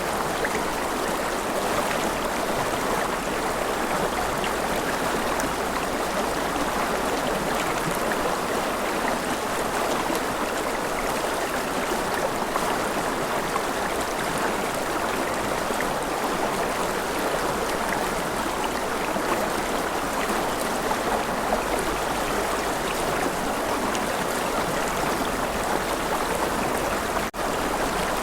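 River water flowing steadily in a continuous rushing babble, with a brief dropout about a second before the end.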